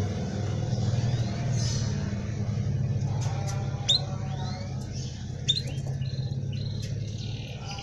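Domestic canary chirping in short scattered phrases, with two sharp upward-sweeping calls about four and five and a half seconds in, over a steady low hum.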